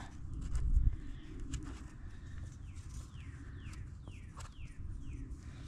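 A bird calling: a run of about seven quick notes, each sliding down in pitch, in the second half. Handling clicks and a low thump come under a second in.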